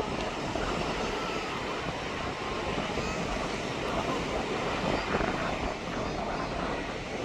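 Steady rushing of sea surf and wind on the shore, with faint voices mixed in.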